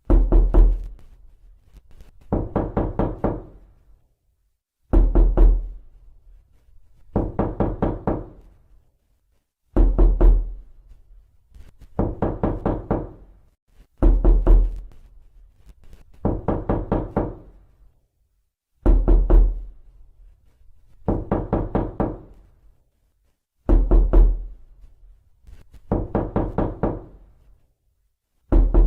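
Knocking on a door, over and over. Each round is a quick run of about five or six knocks, and a new round comes every two to two and a half seconds. Heavier, deeper rounds alternate with lighter ones.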